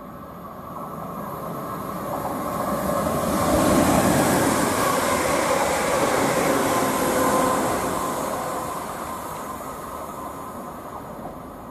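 A Class 360 Siemens Desiro electric multiple unit running through the station: wheel and rail noise builds, is loudest about four seconds in as the carriages pass, and fades away as the train leaves.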